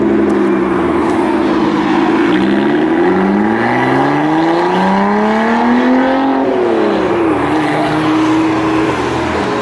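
Car engine accelerating away: a steady engine note for about two seconds, then the pitch climbs steadily for about four seconds, drops sharply, and settles into a steady note.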